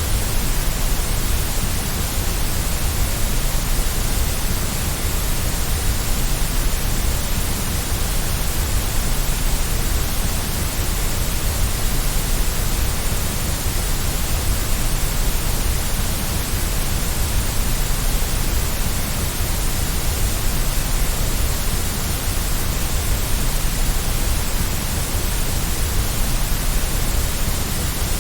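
Steady synthetic white noise, an even, unchanging hiss with a low rumble underneath.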